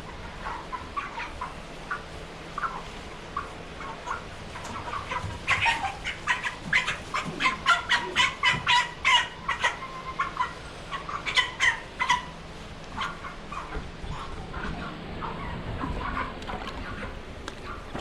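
Meat chickens clucking and squawking in short, rapid calls, sparse at first, then a dense, loud flurry from about five to twelve seconds in before tailing off.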